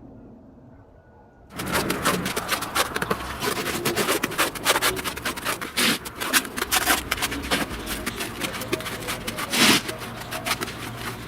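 Dense, irregular clattering of knocks and scraping from building work, starting suddenly about a second and a half in.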